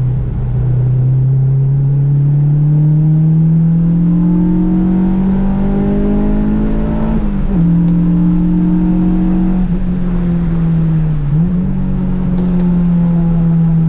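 Honda Civic engine pulling hard under load, its revs climbing steadily for about seven seconds before a gear change drops the pitch. It then holds fairly steady, with a brief dip about eleven seconds in, and eases off near the end.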